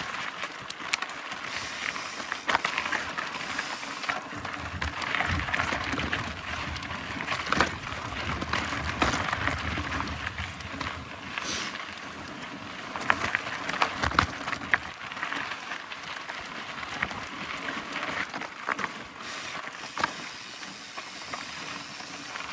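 Mountain bike ridden along an overgrown dirt trail: tyres running over the ground and plants brushing past, with scattered knocks and rattles from the bike and the rear hub's freewheel ticking.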